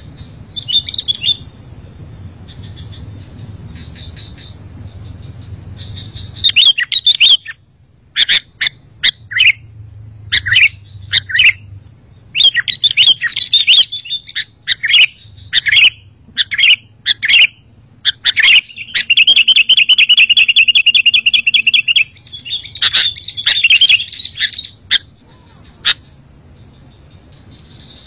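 Sooty-headed bulbul calling: a run of short, sharp chirps and whistled notes, with a fast trill lasting about three seconds in the middle.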